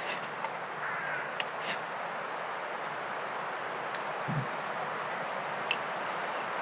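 Steady rush of wind through woodland, with a few sharp clicks, a dull thump about four seconds in, and faint bird calls.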